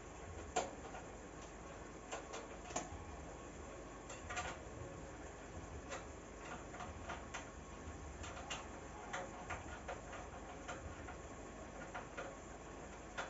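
Scattered light clicks and taps of an oven door's glass panel and metal frame being handled as the door is taken apart.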